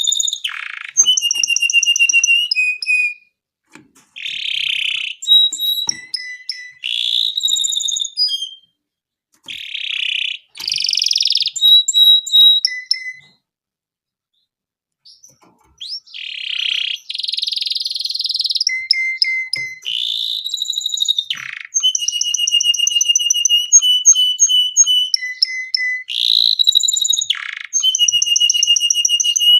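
Domestic canary singing a long song of rapid high trills and buzzy notes in phrase after phrase, with a pause of about two seconds midway.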